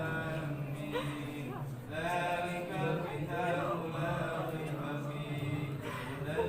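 A group of men chanting Arabic prayers together, a melodic line over a steady low drone of many voices.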